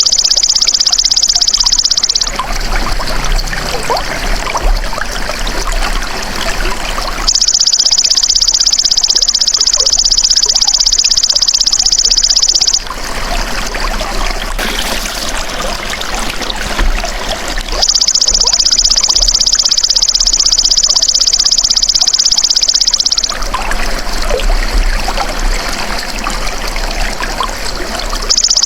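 Belalang emas (golden grasshopper) calling in loud, high-pitched, rapidly pulsed buzzing bouts of about five and a half seconds. Between the bouts, water trickles for about five seconds.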